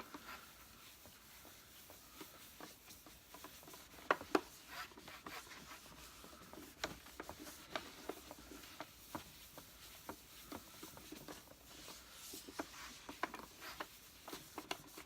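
Sponge applicator pad rubbing polish onto the plastic body of a Hoover Senior Ranger U4002 upright vacuum cleaner: soft scuffing and wiping, broken by many small clicks and taps of the pad and hand against the casing, with the sharpest taps about four seconds in.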